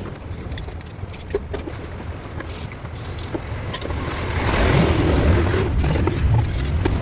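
Car engine running with a steady low rumble and scattered clicks; it grows louder about four and a half seconds in.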